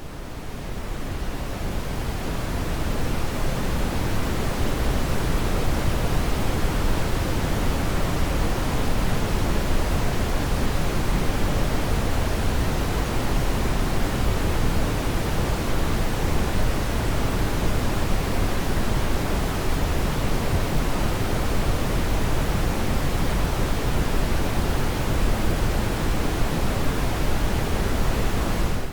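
Synthetic brown noise: a steady, deep rushing hiss weighted toward the low end, fading in over the first few seconds.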